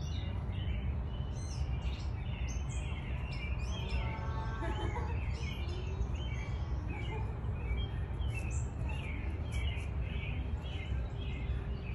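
Birds chirping and calling repeatedly over a steady low outdoor rumble.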